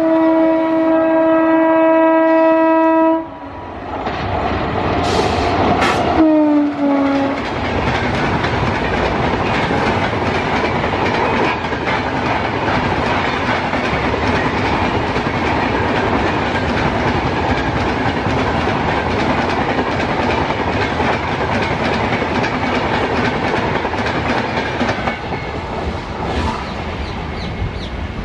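Indian Railways electric locomotive horn blaring steadily for about three seconds. A few seconds later a horn note drops in pitch as the train passes. Then a passenger train's coaches roll by with a steady rumble and the clickety-clack of wheels over rail joints, easing off near the end.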